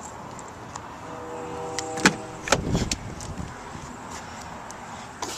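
Pickup truck's front passenger door being unlatched and pulled open: a brief hum, then a sharp latch click about two seconds in, followed by a dull thud and a few small clicks as the door swings open.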